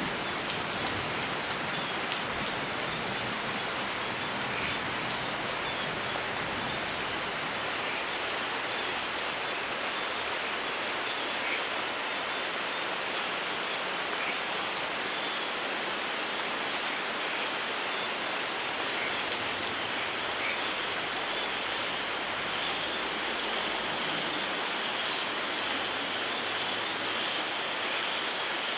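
Steady rainfall, an even hiss of rain with scattered drops pattering on a surface.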